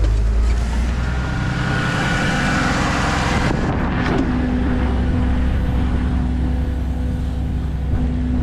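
A vehicle engine idling steadily close by. A rushing noise swells about a second in and stops abruptly after about three and a half seconds.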